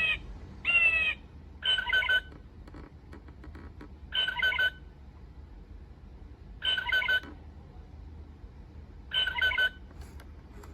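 Recorded blue jay calls played from a bird clock's small speaker: two short calls falling in pitch near the start, then four harsh, pulsed calls about two and a half seconds apart.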